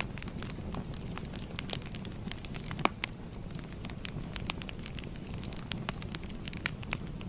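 Wood fire crackling: a steady low rumble of burning, with irregular sharp pops and snaps. The loudest snap comes about three seconds in.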